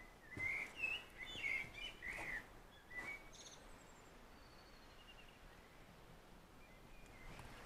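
A songbird singing a quick run of high chirping notes for about two seconds, with one more note a moment later, then only faint distant calls.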